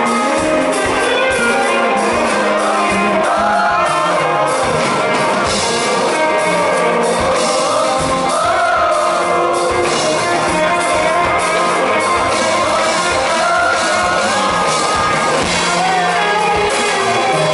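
Rock band playing live: drums, guitars and bass under a male lead singer holding long, bending notes.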